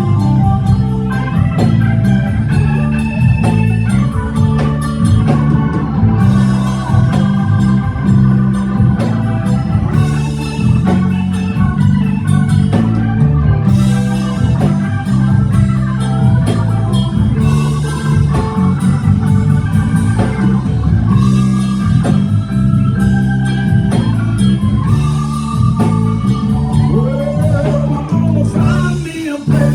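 Live blues band playing an instrumental passage of a slow ballad: organ and electric guitar over a steady bass line and drums.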